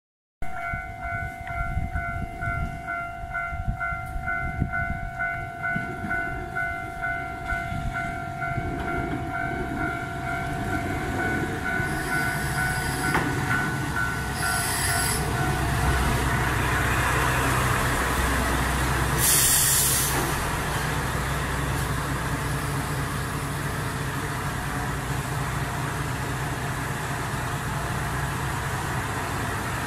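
A level-crossing bell rings in a steady pulsing rhythm, stopping about halfway through, while a Shimabara Railway diesel railcar rumbles in alongside the platform. About two-thirds of the way in there is a brief loud hiss.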